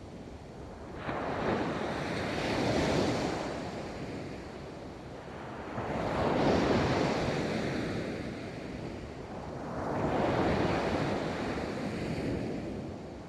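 Ocean waves breaking and washing up a beach, three waves about four seconds apart, each swelling into a rush of surf and fading back. Some wind noise on the microphone.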